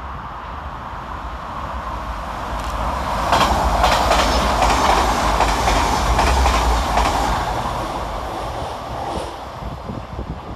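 Hitachi Class 802 bi-mode multiple unit passing through a station at speed without stopping. The noise swells as it approaches, is loudest as the coaches go by with wheel clicks over the rail joints, then fades as it draws away.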